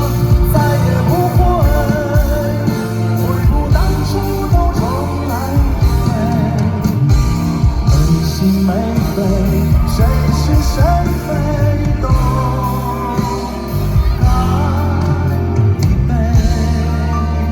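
Live concert music: a vocalist singing a melody with vibrato over a band with steady bass, heard from the audience.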